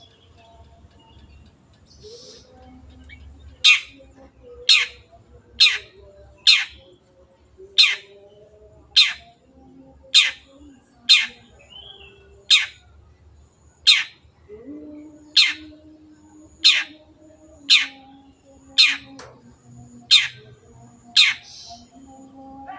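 Long-tailed shrike (cendet) giving a loud, harsh call that sweeps down in pitch, repeated about once a second, starting a few seconds in.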